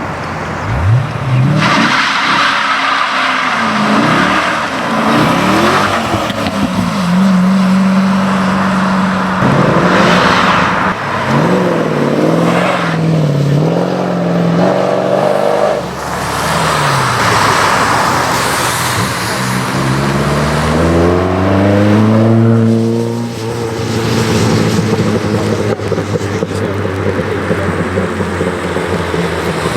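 High-performance car engines revving and accelerating hard, their pitch climbing and dropping again and again through gear changes, with stretches of loud exhaust and tyre noise.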